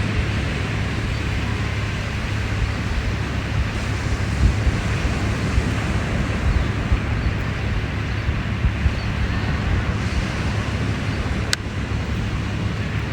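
Surf washing on the beach in a steady hiss, with wind buffeting the microphone in a low, gusty rumble.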